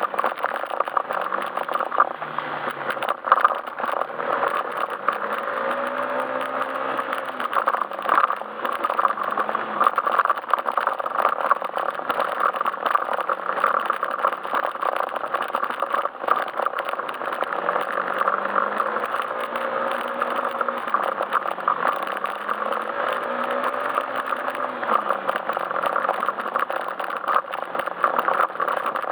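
Yamaha Majesty S scooter's single-cylinder engine running under way, its pitch rising and falling a few times with the throttle, over steady road noise and rattling.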